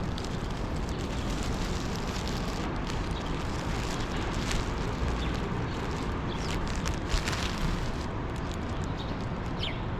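Steady outdoor background noise, heaviest in the low end, with scattered light rustles and clicks and a faint high chirp near the end.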